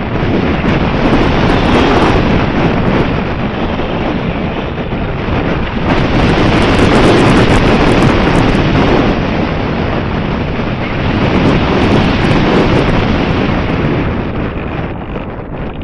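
Wind buffeting the microphone, a loud rushing that rises and falls in gusts.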